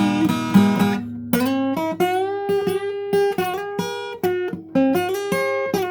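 Acoustic guitar picking a melody in separate plucked notes that step up and down in pitch, several notes a second, between sung lines of a song.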